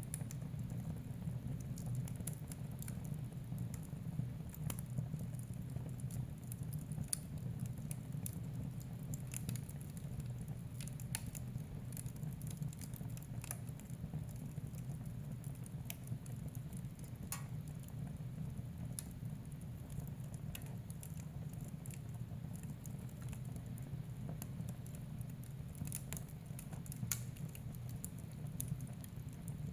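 Fire burning in a fireplace: a steady low rumble of the flames with irregular sharp crackles and pops scattered throughout.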